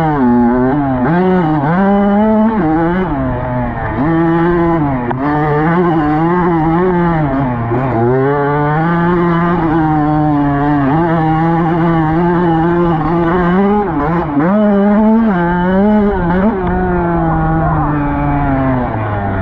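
Dirt bike engine being ridden, its note rising and falling over and over as the throttle opens and closes, with a few sudden drops in pitch.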